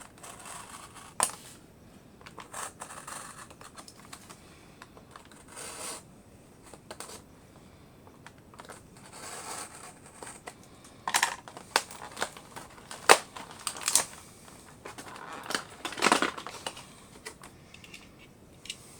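A diecast model car and its advent calendar packaging being opened and handled by hand: irregular clicks, scratches and crinkles, with several sharper clicks and snaps in the second half.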